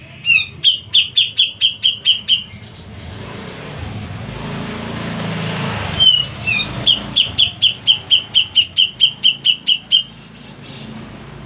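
Cucak jenggot (grey-cheeked bulbul) singing two fast chattering phrases, each opening with a couple of falling whistles and then a quick, even run of bright repeated notes at about five or six a second. A broad hiss swells between the two phrases.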